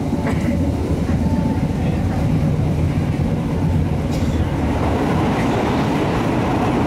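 A passenger train running at speed, heard from inside the carriage: a steady, loud low rumble of the wheels and running gear on the track.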